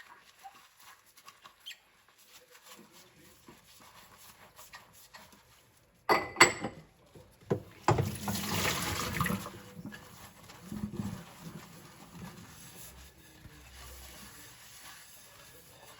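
Dishes being washed by hand at a sink: faint handling at first, then sharp clinks of ceramic plates about six seconds in, followed by a short rush of water and softer scrubbing and rubbing sounds.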